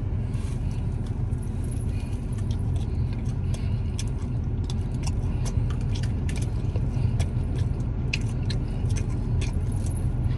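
Biting and chewing crispy fried chicken wings: many short, sharp crunches several times a second, over a steady low vehicle rumble.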